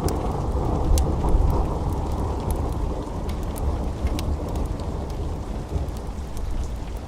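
Steady rain with a low rumble of thunder that is loudest about a second in and slowly dies away, with scattered sharp crackles of a wood fire.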